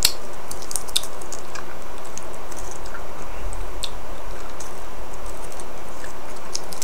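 A person chewing and sucking on a Toxic Waste sour hard candy, with irregular small wet clicks from the mouth, over a steady background hiss.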